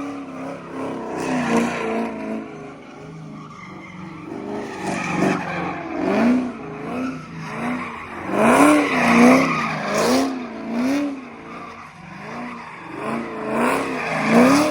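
Car engine revved hard in quick repeated surges, its pitch rising and falling about once or twice a second, with tyres skidding; loudest about two-thirds of the way through and again near the end.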